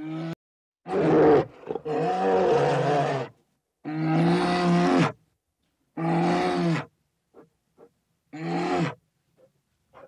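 Bear roaring: five drawn-out, pitched roars of about a second each, separated by short pauses.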